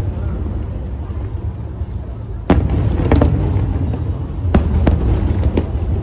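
Aerial fireworks shells bursting over a continuous low rumble, with a jump in loudness about two and a half seconds in. After that come several sharp bangs.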